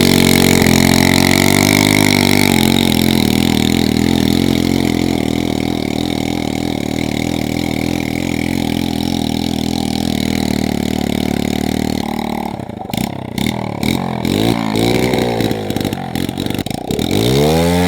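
Pit bike's small single-cylinder engine held at high revs in a standing burnout, its rear tyre spinning on concrete. About twelve seconds in, the steady run gives way to the throttle being blipped, with the revs rising and falling in uneven bursts and one big rev near the end.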